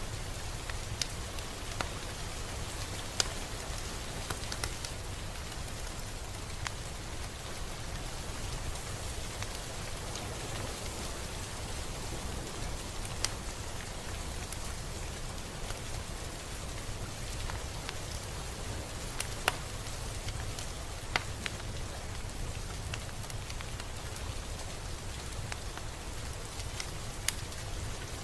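Steady rain falling, an even hiss with a low rumble beneath, and scattered louder drops ticking now and then against a surface.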